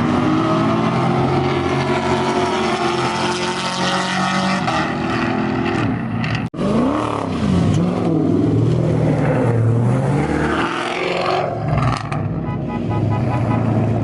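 V8 muscle-car engine revving and running under load, its pitch rising and falling, with a sudden break about six and a half seconds in.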